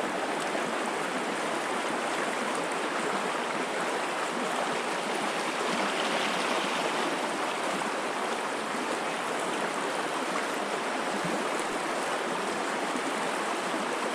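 River water flowing and rippling, a steady rushing noise that holds even throughout.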